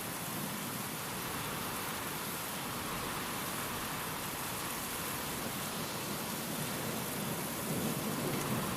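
Steady rain, a continuous even hiss of drops falling on surfaces, with a low rumble swelling slightly near the end.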